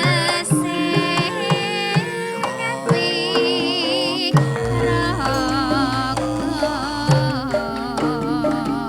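Javanese gamelan ensemble playing, with a voice singing a wavering melody over the steady metallic tones and kendhang drum strokes. A low steady hum comes in about halfway.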